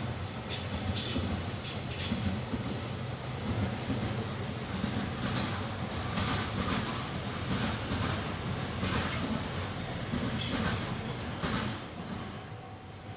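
Train passing, a steady low rumble with the wheels clacking over rail joints, dying away near the end.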